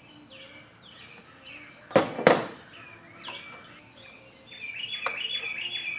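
Small birds chirping repeatedly in the background, with two sharp clicks close together about two seconds in from hand work on the engine parts.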